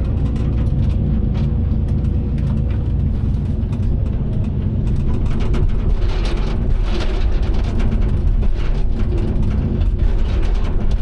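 Excavator's diesel engine running steadily under load, with clattering and cracking from about six seconds in.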